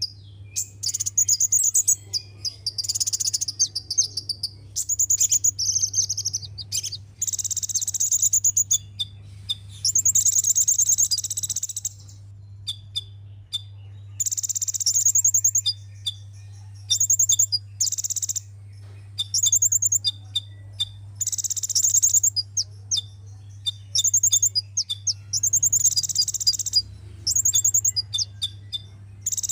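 Sunbird song: repeated high, fast trilled phrases about a second or two long, broken by sharp single chips, with a steady low hum underneath.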